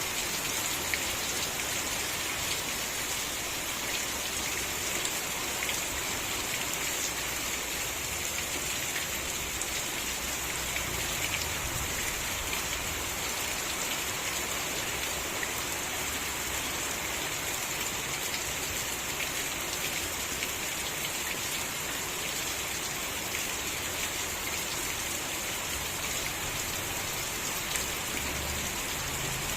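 Steady rain falling, with a dense patter of individual drops hitting surfaces over an even hiss.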